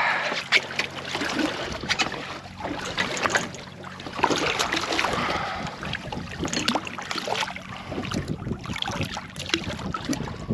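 Irregular knocks, clicks and clatter of a conger eel being handled and unhooked with a T-bar on a small fishing boat, over wind on the microphone and a faint steady low hum.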